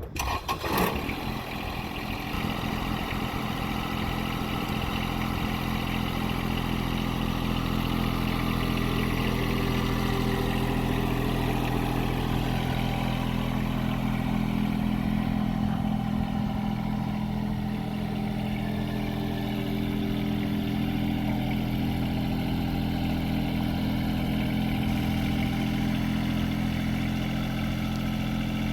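John Deere 2305 tractor's three-cylinder diesel engine starting, catching within about the first second, then running at a steady idle.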